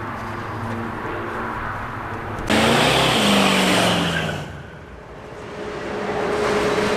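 A motor vehicle engine running, with a sudden loud surge about two and a half seconds in whose pitch falls away over a second or two before the sound eases and settles again.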